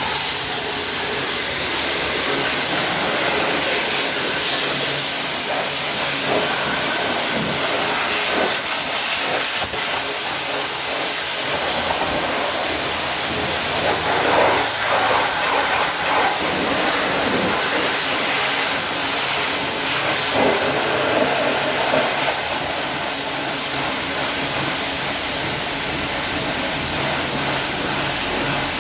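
High-pressure washer jet spraying water onto a car's body, a steady loud hiss that swells briefly a couple of times.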